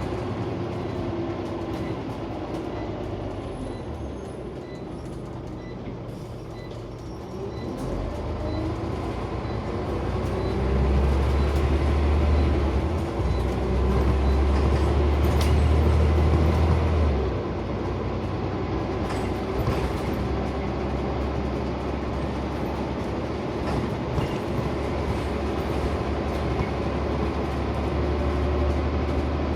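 Scania OmniCity bus heard from inside the passenger cabin while running: steady engine and road noise, with the engine pulling harder and louder for several seconds from about ten seconds in, then easing back.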